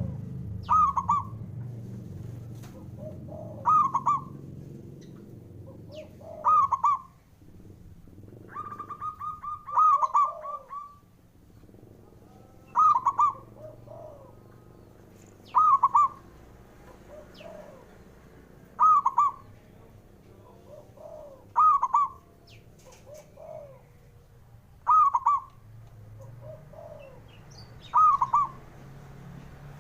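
Male zebra dove (perkutut) cooing: a short phrase of clipped notes repeated about every three seconds, with one longer drawn-out phrase about nine seconds in.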